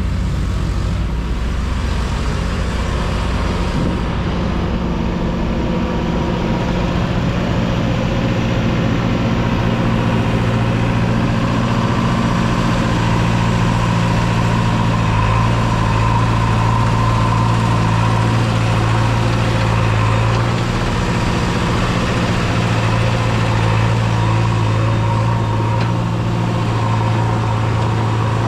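Heavy diesel engine running steadily at a constant speed, with small shifts in pitch partway through.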